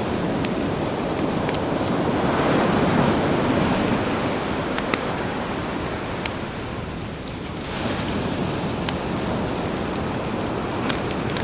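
Sea waves washing in and back, with a crackling campfire: one wave swells loudest a few seconds in and recedes, while sharp scattered crackles pop over the steady hiss.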